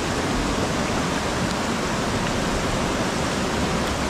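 Steady rush of fast river water on the Trishuli, mixed with heavy rain falling.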